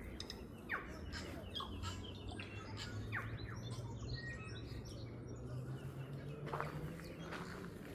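Songbirds chirping and calling in a rapid run of varied short notes and quick whistles, busiest in the first half, over a low steady hum.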